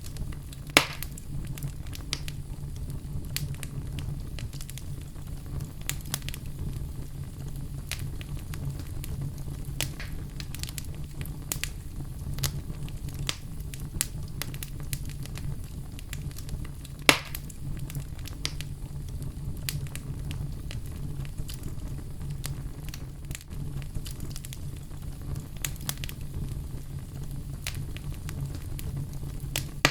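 Wood fire burning in a fireplace: a steady low rumble with frequent small crackles, and two sharp loud pops, one about a second in and one a little past halfway.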